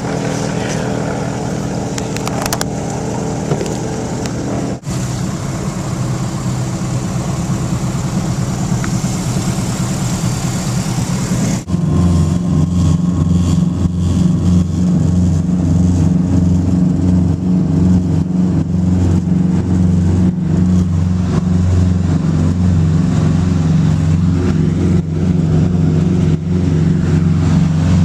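Small propeller airplane's piston engine running steadily. About twelve seconds in, the sound changes abruptly to a louder, deeper drone.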